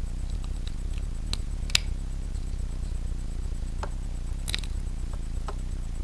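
A few scattered small clicks and snips of hand work, over a steady low hum.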